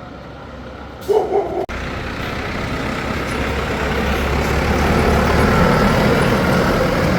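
Heavy truck engine running and getting gradually louder as it drives. About a second in there is a brief pitched tone, twice.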